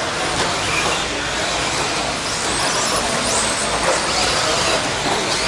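Electric RC stadium trucks with 17.5-turn brushless motors racing on the track: a steady wash of noise with faint high motor whines rising and falling.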